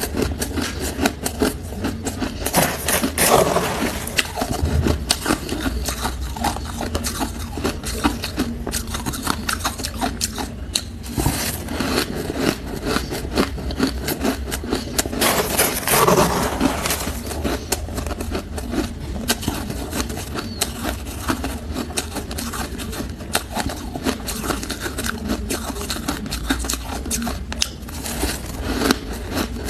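Close-miked crunching and chewing of hard ice cubes: a dense, continuous run of sharp crackling crunches, with louder bites about three and sixteen seconds in.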